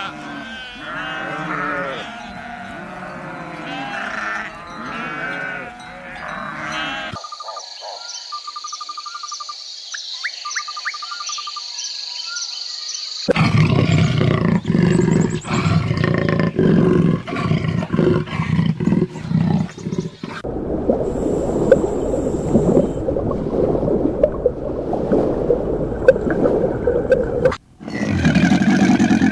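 A run of different animal calls cut one after another: several pitched calls that rise and fall, then a quieter stretch of thin high tones, then loud, rough roaring from about halfway through.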